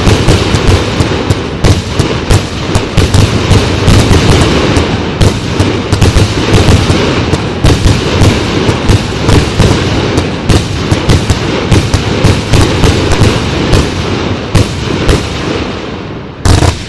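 Show Box 2 fanned fireworks battery firing a rapid, continuous barrage of shots that thins out near the end, with one last loud report.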